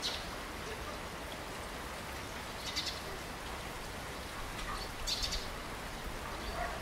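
Steady morning rainfall hissing evenly. A bird calls over it in three short chirping bursts: at the start, just under 3 seconds in, and about 5 seconds in.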